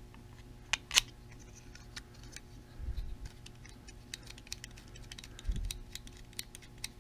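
Small parts being handled and fitted together by hand: scattered sharp clicks and taps, two loud ones close together about a second in, with a few soft low thumps of parts set down on the bench.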